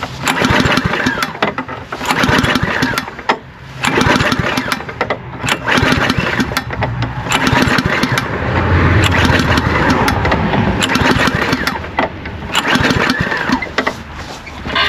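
Petrol lawnmower engine being pull-started again and again, about six pulls of the recoil starter, each cranking over roughly and failing to catch. It will not start because water has got into the carburetor.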